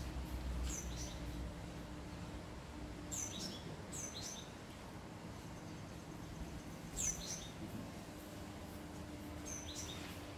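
Small birds chirping: about five short, sharp calls that drop quickly in pitch, a few seconds apart, over a faint steady low hum.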